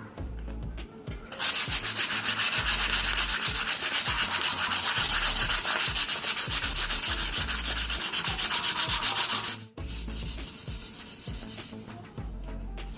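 Sandpaper rubbed back and forth on a heat-discoloured stainless steel motorcycle exhaust header pipe, in quick even strokes about four a second. It starts about a second and a half in, stops abruptly near ten seconds, then carries on more softly.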